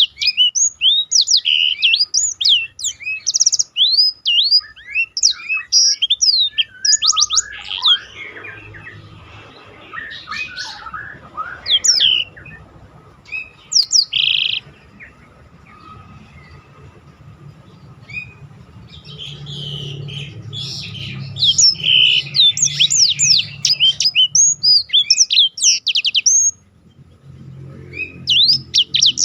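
Black-throated canary (blackthroat) singing in fast runs of high, quick chirps and rolling trills. The song softens to scattered twitters for several seconds in the middle, then comes back in dense runs.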